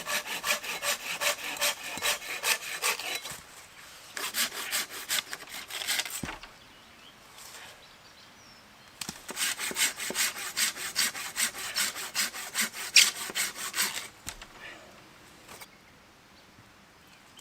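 Hand saw cutting through a log in rapid back-and-forth strokes, in three bouts with short pauses between them.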